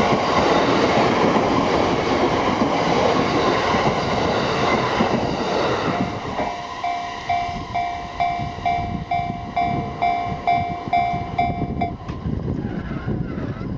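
Yamanote Line E231-series electric train running past over the rails with wheel clatter, loud for the first six seconds or so. As the train noise falls away, the level crossing's warning bell rings out about twice a second, then stops suddenly about twelve seconds in.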